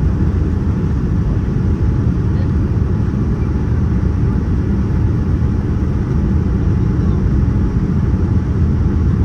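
Steady, loud low rumble of engine and airflow noise heard inside the cabin of a Boeing 787-9 airliner, with no distinct knocks or changes.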